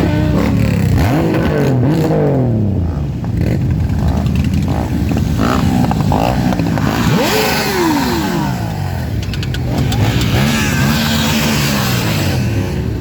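Many motorcycles riding past in a procession, their engines overlapping and revving up and down in pitch.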